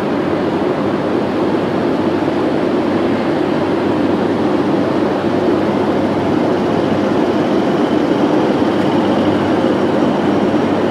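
Class 90 electric locomotive with its Mark 3 coaches moving slowly alongside a station platform: a steady, continuous running rumble. A faint high whine comes in about six seconds in.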